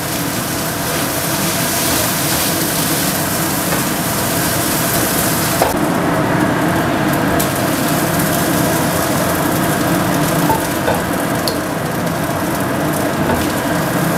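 Fried rice sizzling in a nonstick wok while a spatula stirs and scrapes through it. The high sizzling hiss drops away about six seconds in, and the stirring and scraping go on.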